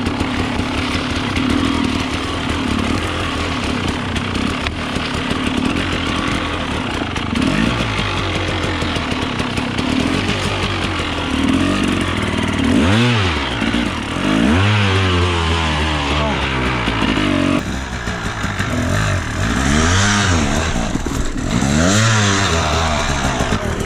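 300cc two-stroke enduro dirt bike engine running on a trail ride. The revs rise and fall in repeated sharp blips through the second half as the rider works the throttle.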